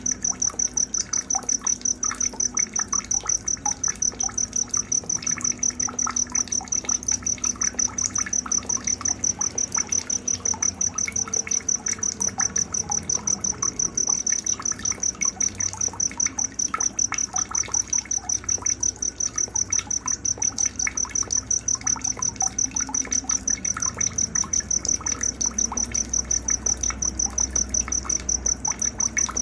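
Night nature ambience: a cricket-like insect chirping in rapid, even, high-pitched pulses without a break, with scattered short bird chirps and a faint trickle of water beneath.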